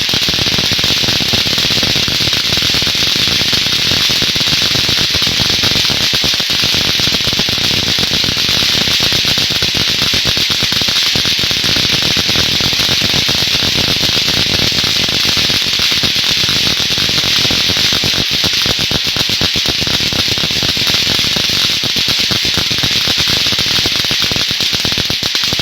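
Loud, harsh crackling static: a dense hiss full of rapid crackles with no tone or pitch, holding steady and then cutting off abruptly near the end. It is offered as a recording of a mysterious sound from the sky.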